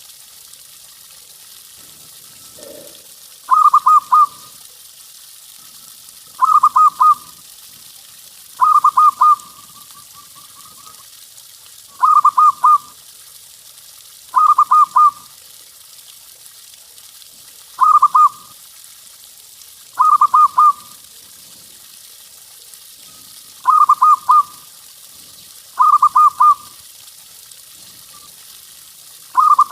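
Zebra dove (perkutut) cooing: short staccato phrases of a few quick notes, repeated about every two to three seconds, ten times over. This is the loud 'big voice' song of a local perkutut, used as a lure recording to get other doves singing.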